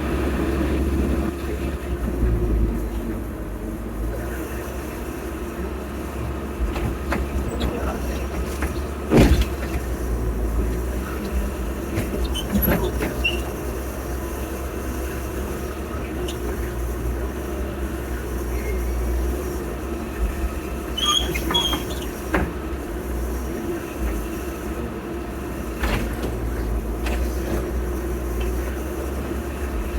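Heavy earthmoving machinery at work: a diesel engine runs steadily. Scattered knocks and clanks cut through it, the sharpest about a third of the way in, and brief high squeaks come about two-thirds through.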